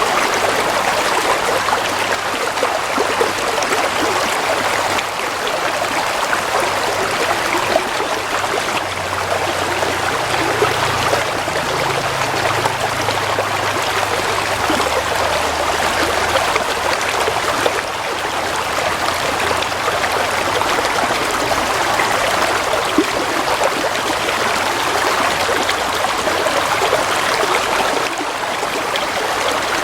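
Water flowing and trickling steadily over stones in a small stream, an even rushing babble.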